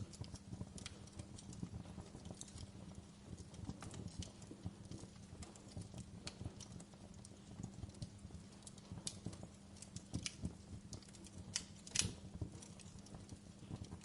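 Wood fire in a fireplace crackling, with irregular sharp snaps and pops over a low steady rumble of the flames; one louder pop comes near the end.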